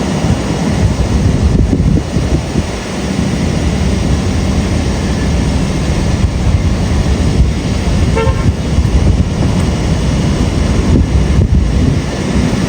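Subway train running by with a loud, steady rumble, and a brief short tone about eight seconds in.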